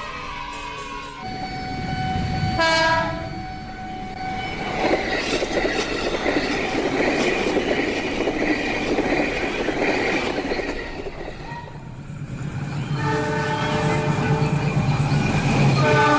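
Train horn sounding twice, briefly about three seconds in and longer near the end, with the noise of the train running on the rails in between.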